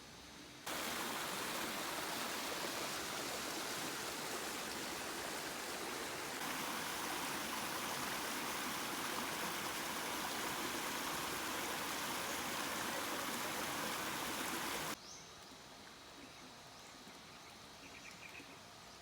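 Steady rushing water, like a stream or waterfall. It starts abruptly about a second in, changes slightly partway through, and cuts off suddenly near the end. It gives way to quiet outdoor ambience with faint chirps.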